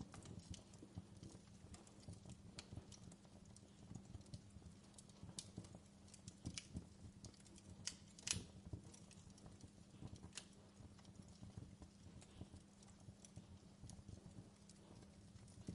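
Quiet wood fire crackling: irregular small pops and snaps over a low steady hum, with one louder pop about eight seconds in.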